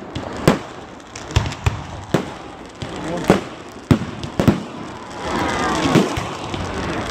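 Fireworks exploding overhead: about ten sharp bangs at uneven spacing, some in quick pairs. Crowd voices underneath, loudest a little past the middle.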